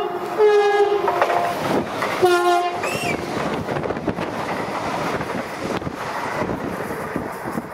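Electric commuter train sounding its horn in two blasts, the second one lower as the train comes level. It then rushes past close by at speed, with wheels and rails clattering, and the noise slowly fades.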